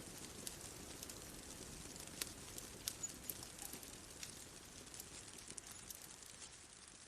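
Bonfire crackling faintly: irregular sharp pops and clicks over a soft low hiss, thinning out a little near the end.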